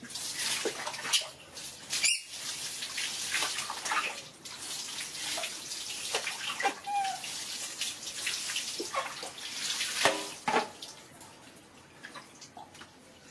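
Water running and splashing during a pet monkey's bath, with many sharp splashes throughout, dying down about eleven seconds in. A short squeak sounds about seven seconds in.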